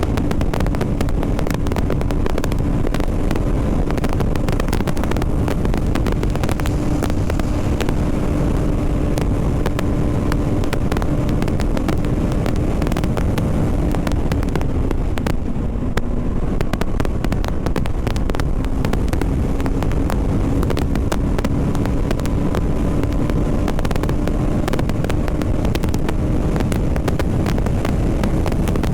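BMW G 310 RR's single-cylinder engine running steadily while the motorcycle is ridden, with wind rushing over the helmet microphone. The engine note drops briefly about halfway through, then rises back up gradually.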